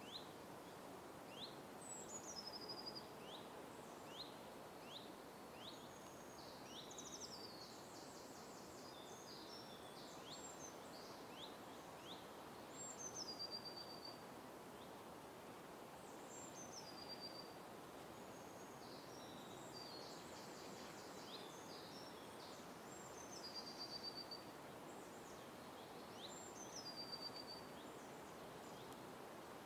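Wild birds calling over a steady background hum. One call falls in steps from high to a short held whistle and repeats every few seconds. In the first several seconds it is mixed with quick upward chirps from another bird.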